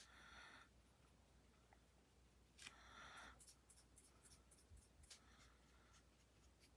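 Faint soft strokes of a Wink of Stella brush-tip pen on cardstock as it lays on colour: two brushing sweeps about two and a half seconds apart, then a few light taps.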